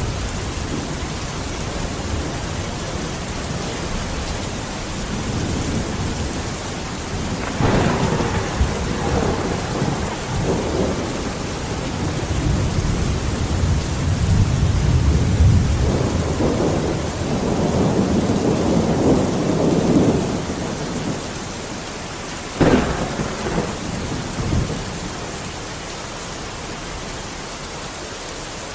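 Steady heavy rain with thunder. Two sharp thunderclaps, one about eight seconds in and one about twenty-three seconds in, trail off into rumbles, and a long rolling rumble swells and fades between them.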